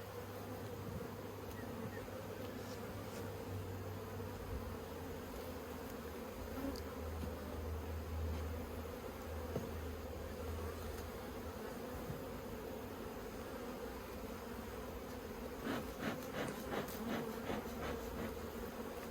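Swarm of honeybees buzzing steadily around an open top bar hive during an inspection. A few light clicks come near the end.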